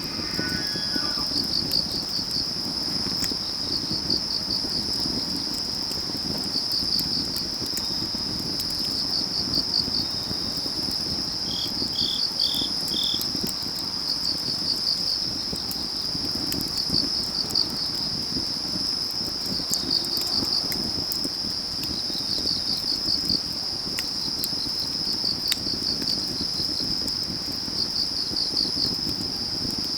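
Autumn crickets and other field insects trilling steadily in a high chorus, with a second insect chirping in short pulsed groups every couple of seconds. A wood fire crackles underneath with scattered sharp pops and a low rush.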